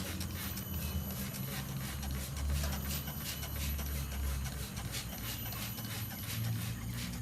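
A steady run of light, irregular clicks and taps over a low hum.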